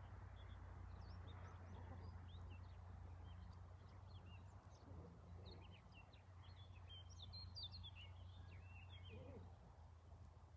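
Faint outdoor ambience: small birds chirping over and over, busiest a little past the middle, over a low steady hum.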